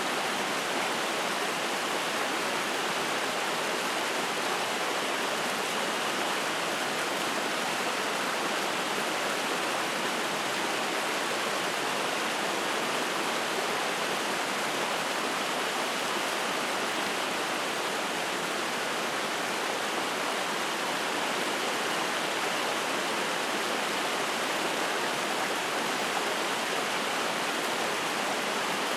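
Mountain stream splashing over rocks: a steady, even rush of water.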